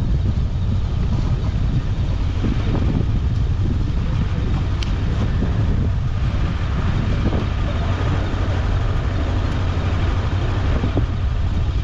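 Strong wind buffeting the microphone over the steady running of a Macbor XR5 motorcycle on the road, a heavy low rumble throughout.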